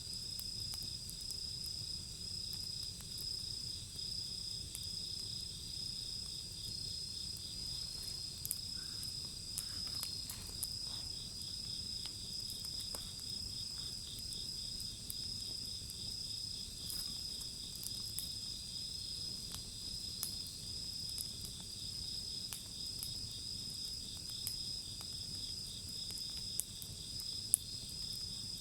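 Insects, crickets among them, chirping steadily, one high continuous trill and one fast pulsing chirp, over the scattered sharp crackles of a wood bonfire. Two louder pops from the fire come near the end.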